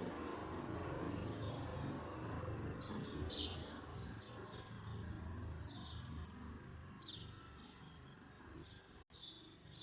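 Sparrows chirping repeatedly in short, high chirps, many sliding downward, over a steady low background rumble. The sound cuts out for an instant near the end.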